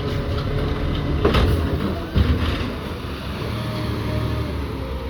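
Diesel garbage truck engine running with a steady low drone, a short hiss about a second in and a knock about two seconds in.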